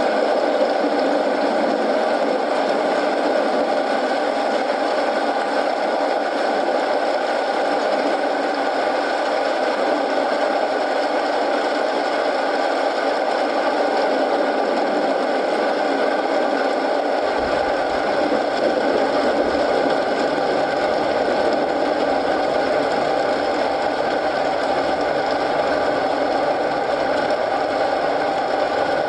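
Steady rain and a crackling wood fire blended into one even, continuous noise. A deeper low sound joins about two-thirds of the way through.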